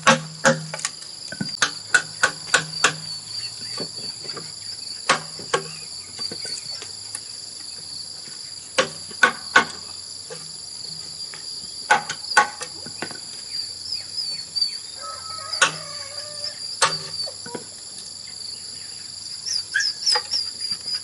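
Steady high chirring of crickets, with irregular sharp knocks that come singly or in quick runs of three or four.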